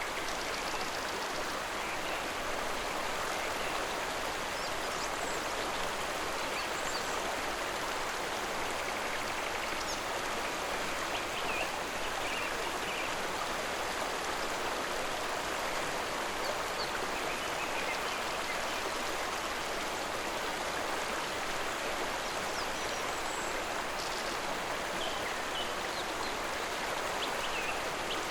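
Steady rushing and babbling of a flowing stream, with faint short high chirps here and there.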